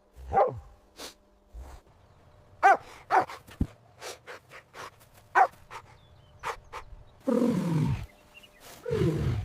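A dog barking: several short separate barks, then a longer, lower growling call about seven seconds in and another near the end.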